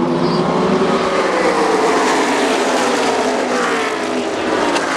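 A pack of NASCAR Truck Series V8 race trucks running at full speed past the microphone, several engine notes falling in pitch one after another as they go by.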